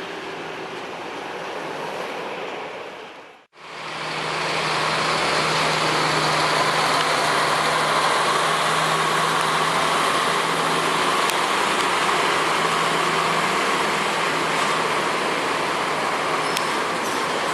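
Airbus A321's CFM56 jet engines running, a steady loud noise with a low hum beneath it. It drops out abruptly about three and a half seconds in and comes back louder.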